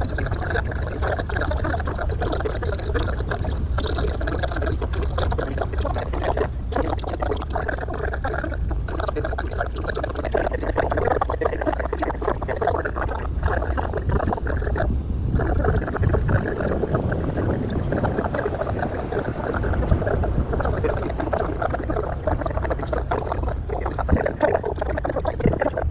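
Harbour cruise boat under way: steady engine noise mixed with water rushing along the hull.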